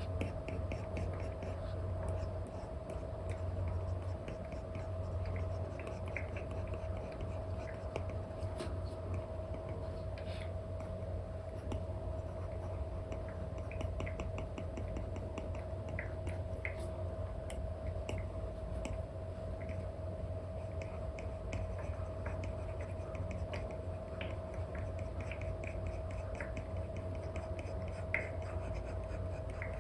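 Apple Pencil nib tapping and scratching in short strokes on a paper-like matte screen protector over an iPad screen, a scatter of small clicks and scratches, over a steady hum.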